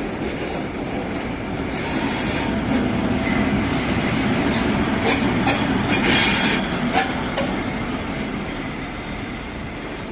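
Freight train rolling through a station: wheels knocking over rail joints and points, with spells of high wheel squeal. It grows to its loudest about six seconds in, then fades.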